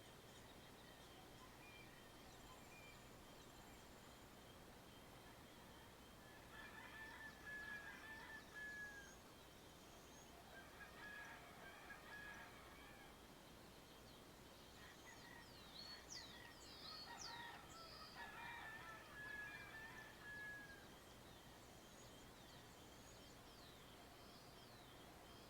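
Faint, distant rooster crowing in three bouts, with small birds chirping briefly in the middle. Beneath it runs a quiet, steady rural background with a thin high steady tone.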